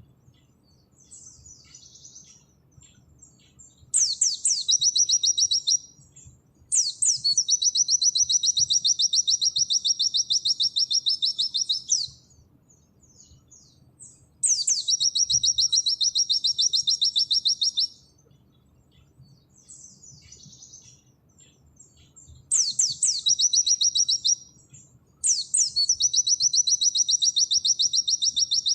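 White-eye (pleci) singing its long rapid 'nembak' song: five loud, fast, high trills lasting about two to five seconds each, each starting with a quick sweep, with soft scattered twittering in the gaps.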